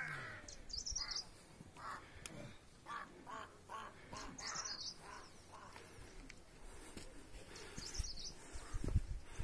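Birds calling in open mountain air: a series of short harsh caws like a crow's, and a high warbling phrase that comes three times. Near the end there are low thumps of footsteps on stone steps.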